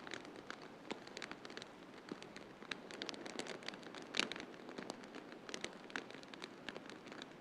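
Wood fire crackling in a fireplace: irregular sharp pops and snaps over a steady soft hiss, with one louder pop about four seconds in.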